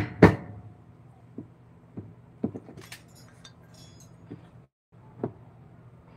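Hand tools knocking on wood during woodcarving work: two hard strikes at the start, like a mallet on a chisel, then scattered lighter taps and a high clink or two.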